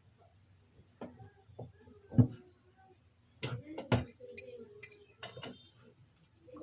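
Hand tools clinking and knocking against the metal parts of a single-phase motor as its nuts are undone to open it. The clinks are scattered and irregular, some of them ringing, with a sharper knock about two seconds in and a flurry of clinks a little later.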